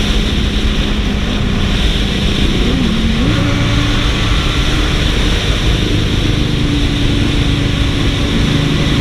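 Benelli TNT 600i's inline-four engine running on its stock exhaust inside a road tunnel, with a steady engine note that steps up in pitch about three seconds in and holds there, under a constant roar.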